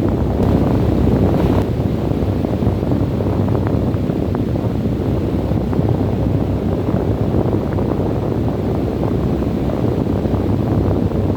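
Steady, deep wind noise with a low rumble, with faint crackles here and there, like wind buffeting a microphone.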